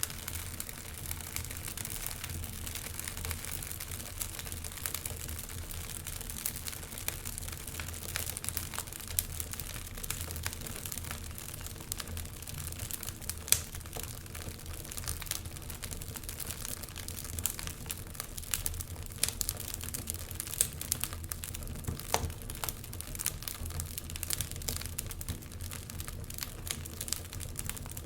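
Wood fire burning in a fireplace, crackling steadily with many small pops over a low rumble of the flames, and a few louder snaps, the sharpest about halfway through.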